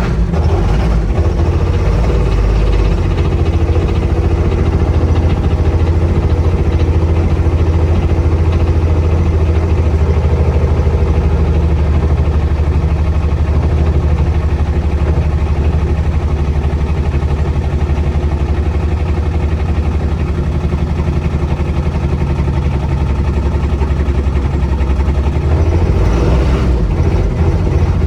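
Intimidator UTV's diesel engine idling steadily, soon after a hard start.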